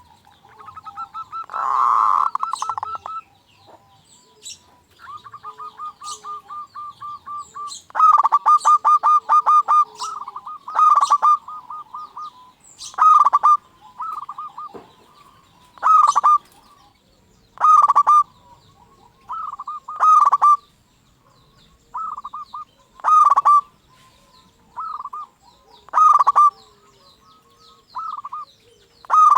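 Zebra dove (perkutut) cooing: a fast run of clipped notes about eight seconds in, then short repeated coo phrases every second or two.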